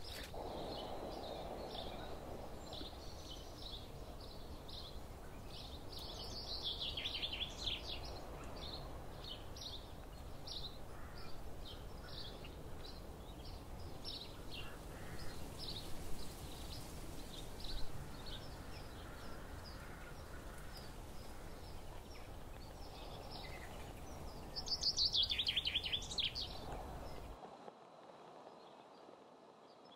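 Small songbirds calling in a forest: many short high chirps, with two longer descending song phrases, one about seven seconds in and one near the end. A low steady rumble runs underneath, and the sound drops away shortly before the end.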